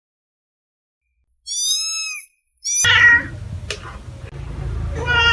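An animal's meow-like calls: after a second and a half of silence, a short high pitched call, then a louder, rougher call about three seconds in over a low rumbling background.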